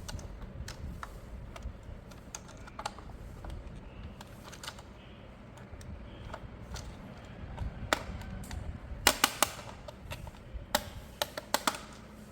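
Sharp plastic clicks and taps from handling a toy and its packaging, scattered at first, then a quick run of louder clicks about nine seconds in and another few near the end.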